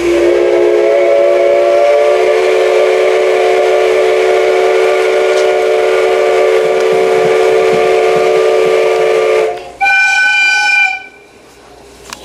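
Steam locomotive whistle on the SL Ginga train: one long, steady blast of about ten seconds sounding several notes at once, then a short, higher blast that stops about a second later.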